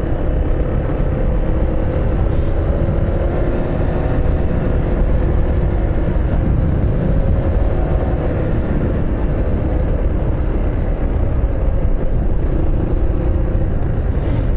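Steady rumble of a car driving, engine hum over road noise, with the engine note rising a little in the first few seconds.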